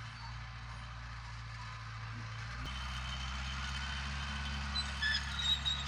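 Heavy diesel earthmoving machinery running steadily with a low engine drone. A click comes about two and a half seconds in, and the engine note shifts lower and heavier; a few short, high squeaks follow near the end.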